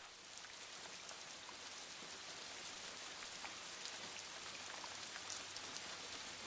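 Steady rain falling: a soft, even hiss with many individual drops ticking through it.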